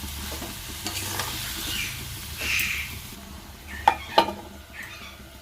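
Food sizzling in a pan while it is stirred, with two sharp clinks of the utensil against the pan about four seconds in.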